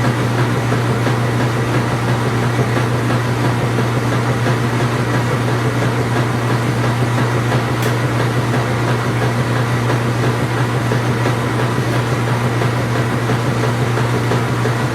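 Truck engine running at a steady speed, a constant low drone with no change in pitch or level.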